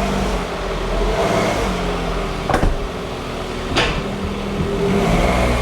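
Smart car engine running steadily after its clutch rebuild, with no knock or rattle, and two sharp clicks about two and a half and four seconds in.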